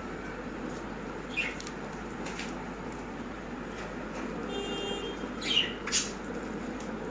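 A few short, sharp bird chirps, each falling slightly in pitch, over a steady background hiss. The loudest pair comes near the end, and a brief steady tone sounds just before them.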